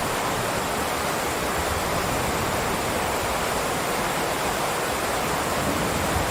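Heavy rain downpour, a steady even hiss with no breaks.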